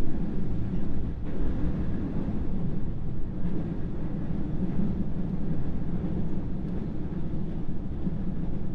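Steady running noise of a JR West 221-series electric train, a low rumble of wheels on rail heard from inside the passenger car KuMoHa 221-67.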